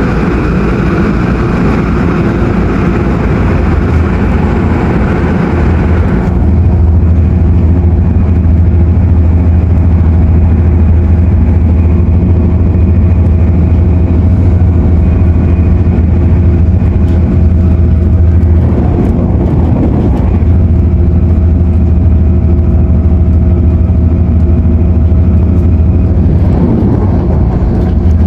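Cabin noise of an MTR Airport Express CAF train running at speed: a loud rushing hiss that drops away suddenly about six seconds in, leaving a steady deep hum with a few faint steady tones above it.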